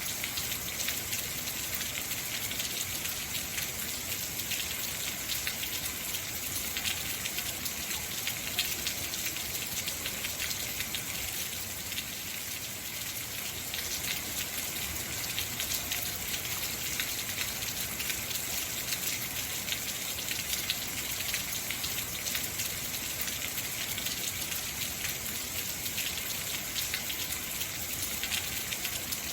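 Heavy rain falling steadily, a dense hiss of many fine drop impacts.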